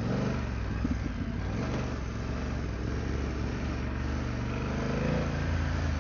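BMW adventure motorcycle engine running at trail speed, its note shifting a little up and down, over wind and tyre noise on dirt.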